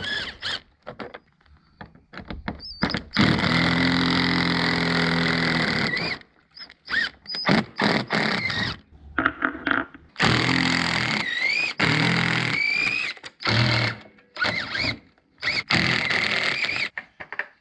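A power tool running in several bursts of a few seconds each, the longest about three seconds, with a rattling hammer in its sound and a whine that rises once near the middle. Short metal clicks and clinks fall between the bursts as the stock exhaust is unfastened from a side-by-side.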